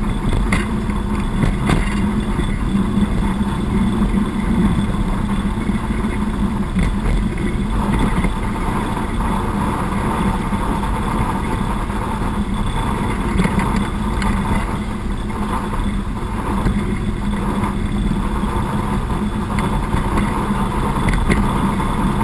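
YaMZ-236 V6 diesel engine of a TU6A narrow-gauge locomotive running steadily while the locomotive rolls along the track, with a few brief clicks.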